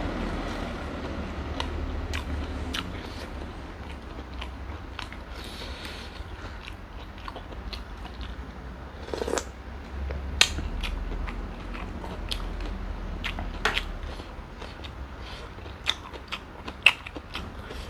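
Close-up eating sounds of a person biting and chewing giant freshwater prawns, with scattered sharp crunches and clicks of shell and wet mouth sounds.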